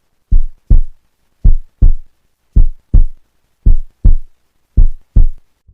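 Heartbeat sound effect: five loud, deep double thumps (lub-dub), about one beat a second.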